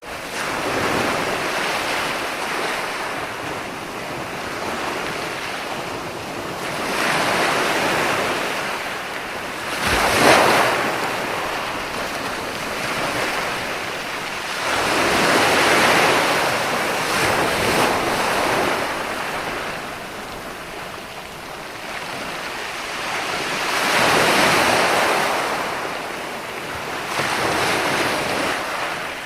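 Ocean waves breaking and washing on a shore, a steady rush that swells with each wave every few seconds, one sharper crash about ten seconds in.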